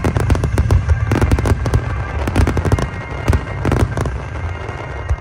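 Aerial firework shells bursting in a dense barrage: many sharp cracks and bangs in quick succession over a continuous low rumble.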